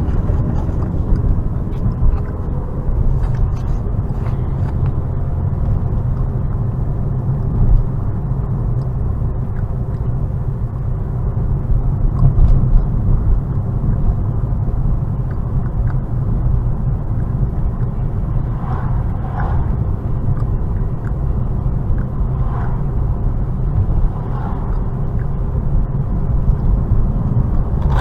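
Steady low rumble of a car's road and engine noise heard from inside the moving vehicle.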